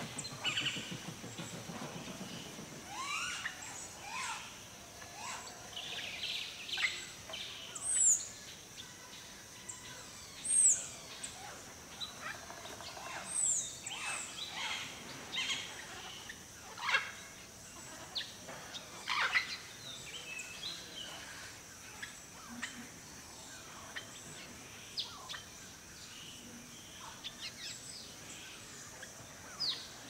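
Wild birds calling: scattered short chirps and twitters, with three loud clear whistles that sweep down in pitch in the first half, over a steady high hiss.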